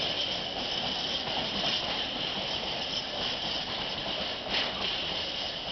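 Empty intermodal flat wagons rolling along the rails, a steady hiss and rattle of steel wheels on track, with one brief louder clatter about four and a half seconds in.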